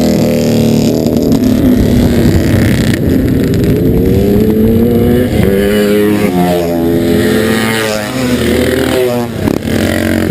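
Motorcycle engine running close by, its pitch rising and falling as the throttle is blipped and eased off.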